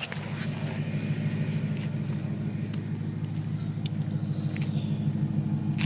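BMW M3 E93's S65 V8 idling steadily through a Meisterschaft GT2 aftermarket exhaust, an even low burble, getting slightly louder toward the end.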